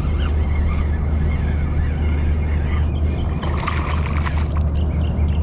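Water splashing briefly about three and a half seconds in, as a small hooked largemouth bass is drawn to the kayak, over a steady low rumble.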